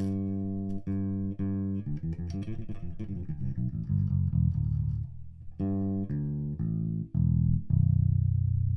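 Electric bass guitar, a Roscoe, played through a Greenboy Audio Fearless F112 bass cabinet: a few long held notes, then a quicker run of notes, then longer notes again, loudest near the end.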